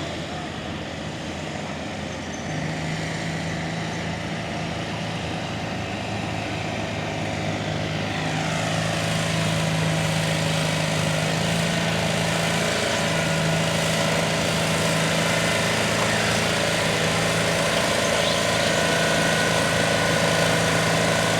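Tractor engine running at a steady speed with a constant hum, growing louder from about a third of the way in as a rough, rushing noise builds over it.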